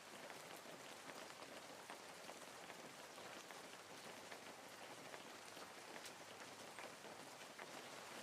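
Faint steady hiss scattered with many small, irregular ticks, with no bird calls.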